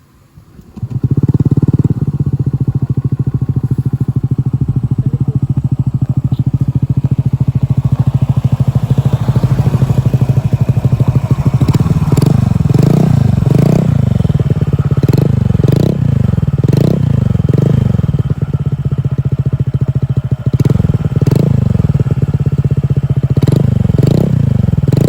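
Honda Click 125i scooter's 125 cc single-cylinder engine, fitted with an aftermarket Akrapovic exhaust, starting about a second in and idling steadily. In the second half it is blipped repeatedly, about a dozen quick revs rising and falling roughly once a second.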